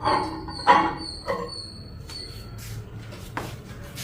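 Samsung smart microwave oven's door being opened and the ceramic tumbler handled inside it: a few clicks and knocks, the loudest about a second in. A faint steady high tone runs through the first two and a half seconds.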